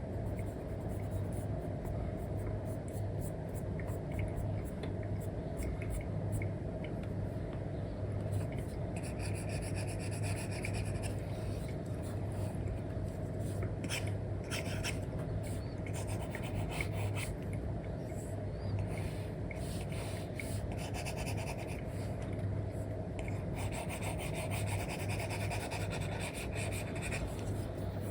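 Apple Pencil 2 with an Elecom nib rubbing and scratching across a paper-like matte screen film on an iPad, in repeated colouring strokes that come and go, over a steady low hum.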